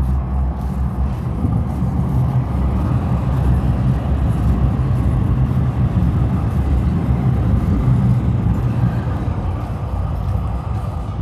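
Motor vehicle engine rumbling close by in street traffic, with a low, steady drone and road noise that swells through the middle and eases slightly near the end.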